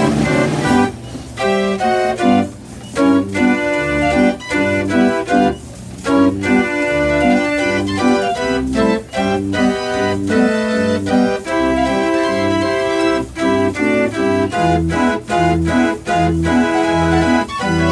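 Wurlitzer Style 165 band organ playing a lively tune: pipe notes carry the melody and chords over a steady, regular beat of bass notes.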